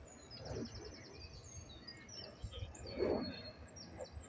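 Small birds singing: scattered high chirps, a fast trill near the start and a longer held whistle about three seconds in, over a low rumble of wind on the microphone. A brief louder noise comes about three seconds in.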